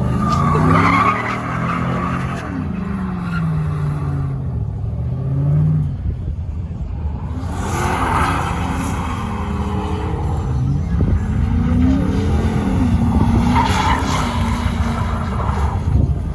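A vehicle engine revving up and down over and over, with bursts of tyre squeal near the start, about halfway through and near the end.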